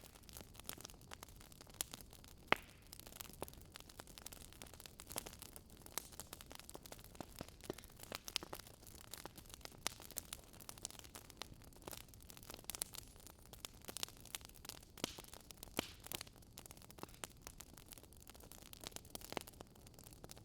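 Faint wood fire crackling: irregular sharp pops and snaps over a low, steady hiss.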